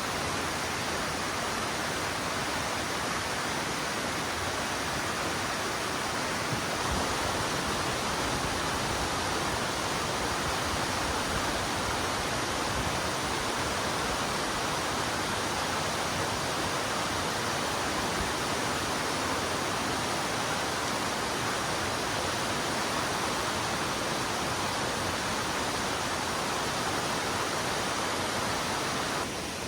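Valley stream water rushing steadily, an even, unbroken hiss.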